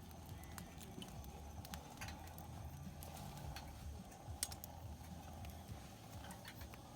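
Wood campfire crackling: scattered, irregular sharp pops and ticks over a low rumble.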